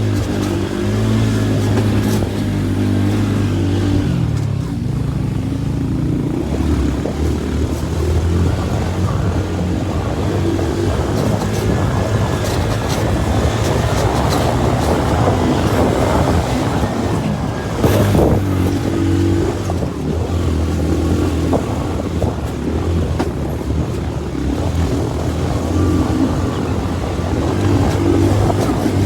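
Motorcycle taxi engine running hard up a steep climb, its pitch stepping up and down with the throttle and gears, mixed with rough rushing noise from the ride. There is one sharp knock about two-thirds of the way through.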